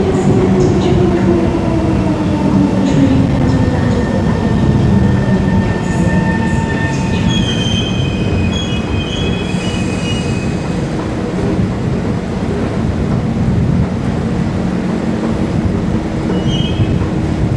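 Singapore MRT electric train slowing down, its traction motor whine falling in pitch over the first few seconds over a steady rumble of wheels on rail. Short high-pitched wheel squeals come about seven seconds in and again near the end.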